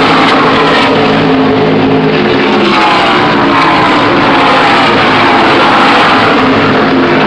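NASCAR stock cars' V8 engines at race speed passing in a steady stream, the pitch of each car dropping as it goes by. The sound is loud enough to overload the phone microphone.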